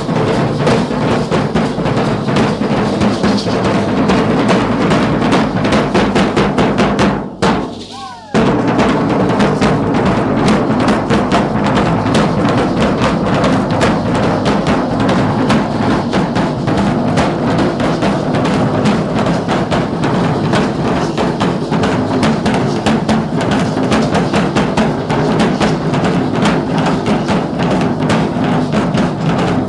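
Danza troupe drums beating a fast, steady rhythm of dense strokes. The sound drops out suddenly for about a second roughly a quarter of the way in, then the drumming comes back at full level.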